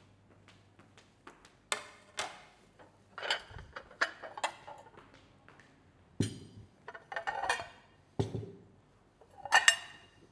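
Tableware being laid on a table: an irregular series of clinks and knocks as cutlery, china and glassware are set down, some with a short ring.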